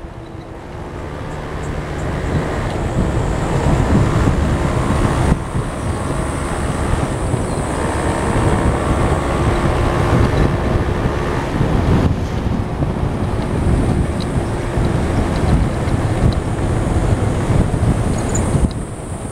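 Vehicle on the move, its engine and road noise under heavy wind buffeting on the microphone.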